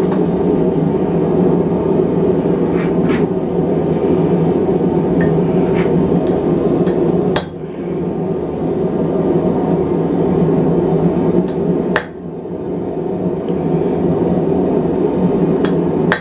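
Steady roar of a running blacksmith's forge, with a few sharp hammer blows on steel: two loud strikes about halfway through and again some five seconds later, and fainter taps earlier.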